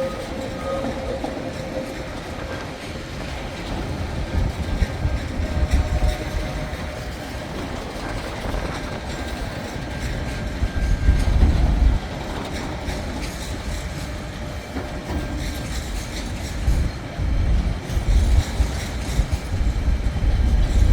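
TasRail freight train rolling past, its wheels clattering over the rails with a heavy low rumble that swells in surges.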